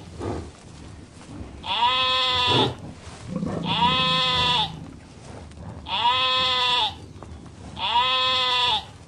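Sheep bleating, four separate calls of just under a second each, about two seconds apart.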